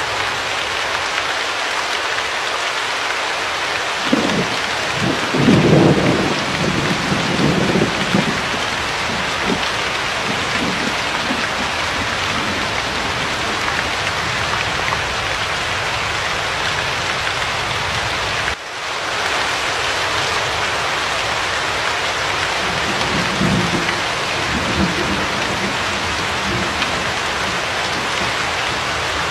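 Steady heavy rain hiss with low rolls of thunder, a longer one about four seconds in and a shorter one past the middle. The rain cuts out for an instant just after the halfway point.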